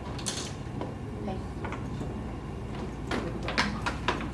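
Scattered light clicks and knocks, about half a dozen, over a steady low room murmur.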